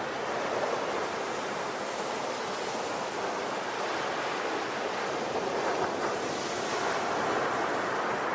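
Sea waves washing onto a shore, a continuous rushing surf that swells and eases gently, with wind.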